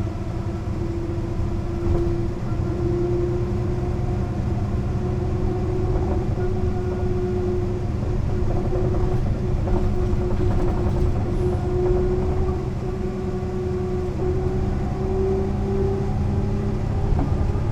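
Mercedes-Benz O 405 NÜ city bus under way: its six-cylinder diesel and drivetrain give a steady low drone with a whining tone that slowly rises in pitch as the bus gathers speed, over small rattles.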